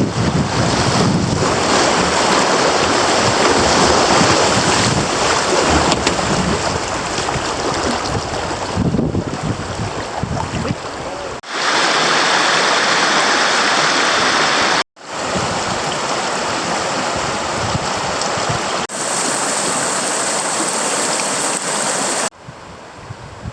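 Creek water running and wind buffeting the microphone, a loud, even rush of noise. Its character changes abruptly several times, with a brief dropout about 15 seconds in.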